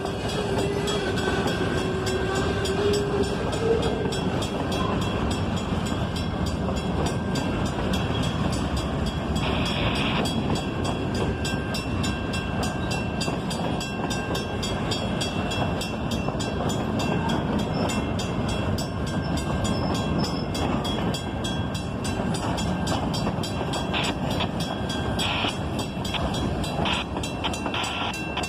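Freight train rolling past: a steady rumble of wheels on rail that holds evenly throughout.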